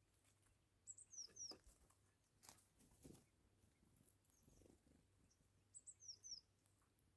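A small bird calling twice, about five seconds apart, each time a short high phrase ending in two quick falling notes, with a few sharp taps or clicks between the calls.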